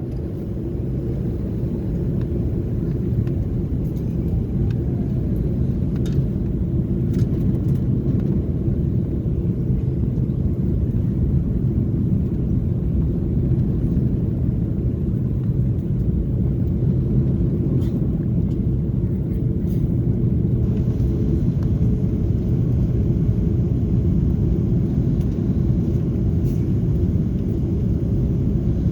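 Cabin rumble inside an Airbus A330-300 during the landing: a steady, loud low rumble that swells slightly in the first couple of seconds, with a few light clicks and rattles from the cabin.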